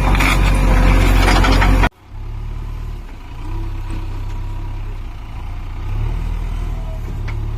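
Loud clattering noise with sharp knocks that cuts off abruptly about two seconds in, followed by a heavy engine running steadily at a low pitch.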